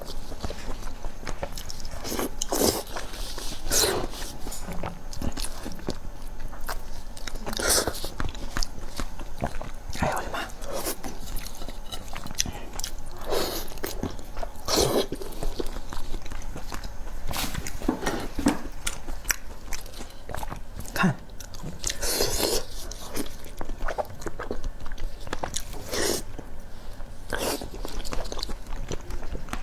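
Close-miked eating: a person biting and chewing food, with many small wet clicks and a louder bite every few seconds.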